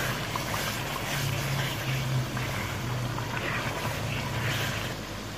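Spinach and mutton curry sizzling as it is stirred and fried down with a wooden spoon in a large aluminium pot, the bhuna stage after the spinach water has dried off. A steady low hum runs underneath.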